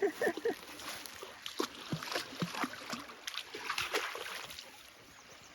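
Irregular splashing and sloshing in shallow water, dying away near the end.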